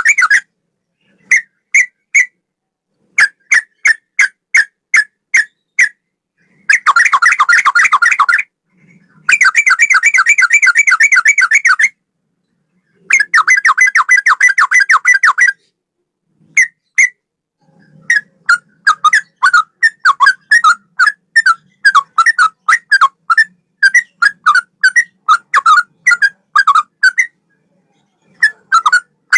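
Yellow-vented bulbul (trucukan) singing a cucak rowo–style song of clear repeated notes. Short groups of separate notes give way to several dense, rapid runs that each stop abruptly, and then to a long steady string of separate notes.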